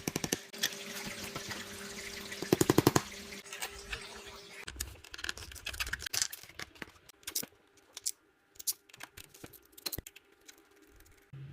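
A scatter of sharp clicks and light knocks, with a quick run of loud rapid clicks about two and a half seconds in; a faint steady hum fades out after about three seconds.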